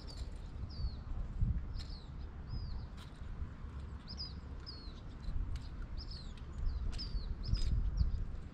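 A small bird chirping over and over, short high notes coming about once or twice a second. Under it run a low rumble and a few sharp clicks.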